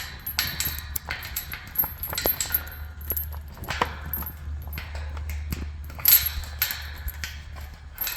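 Keys and metal hardware handled: a run of small clinks, clicks and knocks as a lock or latch is worked open.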